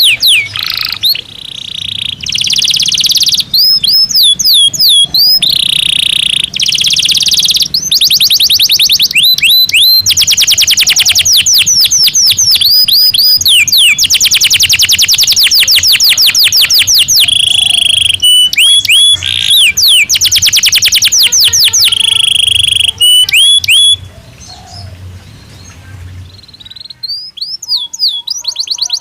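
Caged domestic canary singing a long, loud song of fast rolling trills, rapid repeated sweeping notes and held whistles. It drops to quieter notes for a few seconds near the end, then fast trills resume.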